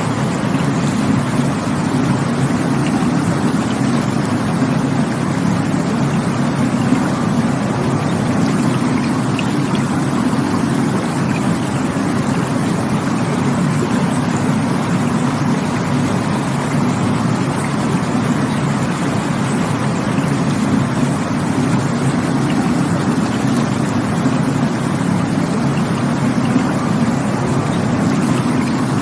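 Rushing water, a steady, deep, even rush that never breaks or changes.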